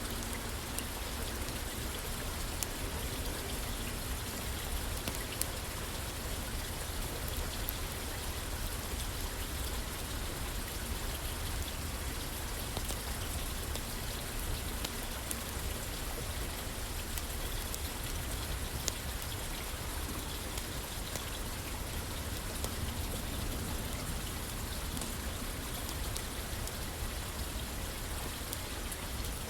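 Steady rain falling on a roof, an even hiss with scattered sharp ticks of individual drops.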